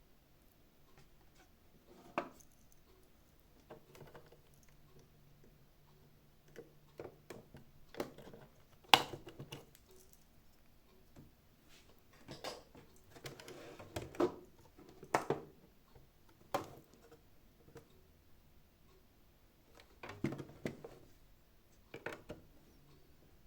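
Plastic housing parts and small tools clicking, knocking and scraping at irregular intervals as a Xiaomi Mijia 1C robot vacuum is taken apart, with one sharper knock about nine seconds in.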